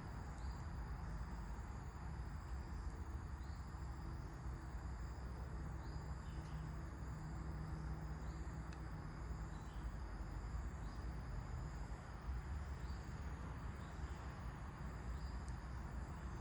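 Insects trilling steadily at a high pitch, with short repeated chirps about once a second, over a low steady rumble of wind.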